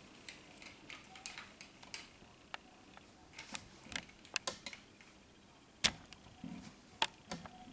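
Scattered light clicks and taps from a Smith & Wesson SD40 pistol and a trigger pull gauge being handled as the gauge is set on the trigger. A sharper click comes about six seconds in and another about a second later.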